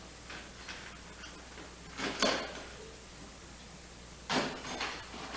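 Tools and a toolbox being handled: two short bursts of clattering and rattling, about two seconds in and again after four seconds, over a low steady hum.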